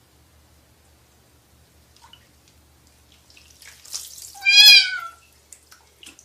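A cat meowing once, a short wavering meow about four and a half seconds in, just after a brief rush of noise.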